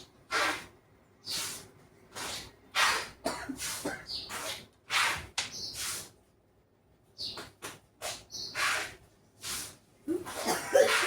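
Adhesive tape being pulled off its roll and pressed down in a quick series of short rasping pulls, about fifteen, with a brief pause in the middle, as a partition in a harmonium is packed with tape.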